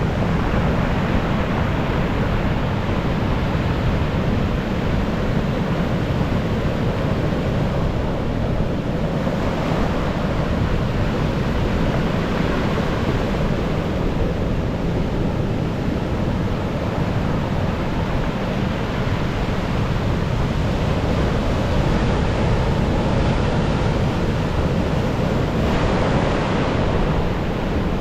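Storm waves breaking and washing on the shore in a continuous roar, with wind buffeting the microphone; the surf swells louder about ten seconds in and again near the end.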